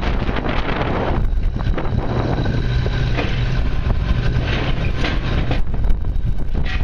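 Backhoe's diesel engine running under load as it works, a steady low drone with a rumbling clatter on top. The higher part of the sound drops away shortly before the end.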